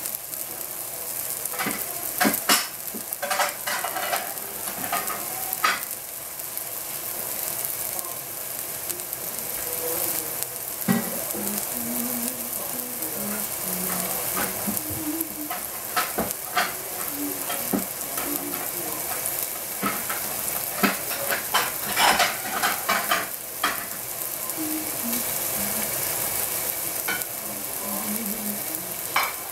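Abalone and king trumpet mushroom slices sizzling in hot oil in a nonstick frying pan: a steady hiss with scattered pops and crackles, coming in clusters a few seconds in and again past the middle.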